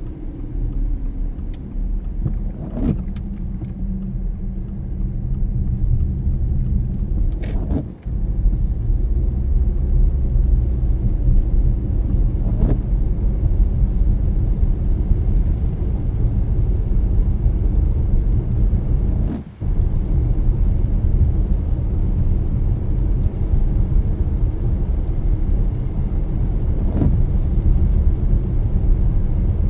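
Car driving along, a steady low rumble of road and engine noise, with a few faint ticks and two brief drops in level.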